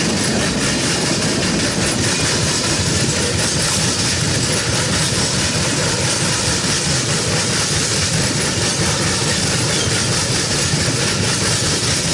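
Freight train tank cars rolling past close by: a steady, loud rush of steel wheels on the rails.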